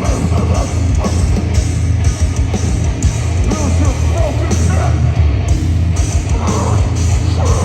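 Deathcore band playing live and loud: heavy guitars and drums with a dense, powerful low end, and vocals over them.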